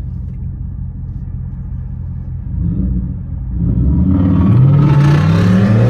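Dodge Charger Scat Pack's 392 Hemi V8 idling with a low rumble, then revving and pulling away hard about two and a half seconds in, its pitch climbing steadily under acceleration before cutting off suddenly.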